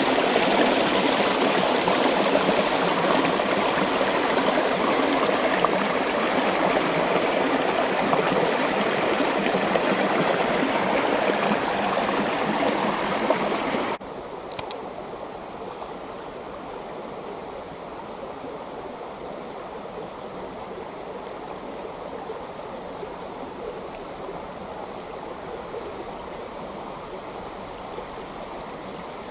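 Creek water flowing in a steady rush. About halfway through it drops suddenly to a softer, quieter flow, and a brief high note sounds near the end.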